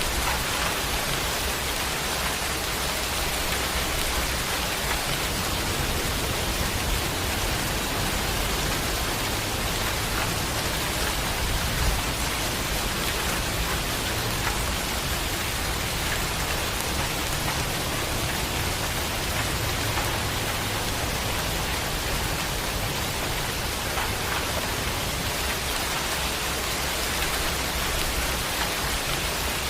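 Steady rain falling, an even hiss with a slowly shifting low rumble underneath and one louder tap about twelve seconds in.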